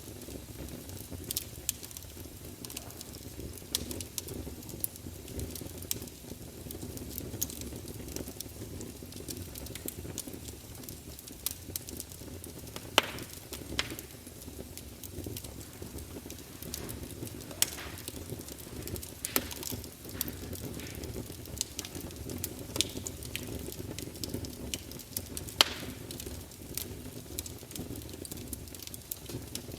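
Campfire burning: a steady low rumble and hiss of flames with frequent irregular crackles and pops of burning wood, a few louder snaps among them.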